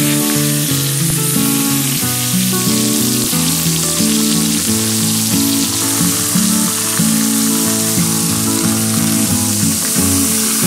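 Beef steak, shrimp and bacon-wrapped asparagus frying on a hot griddle plate: a loud, steady sizzle. Background music plays underneath.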